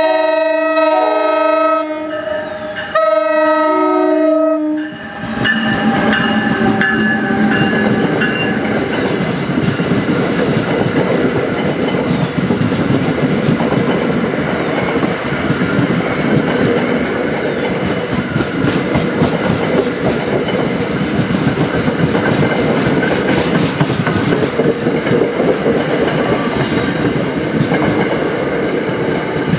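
Electric locomotive's multi-chime air horn (a Nathan K5LA) sounding two long blasts at a grade crossing, then the train passing slowly, its wheels clacking over the rail joints.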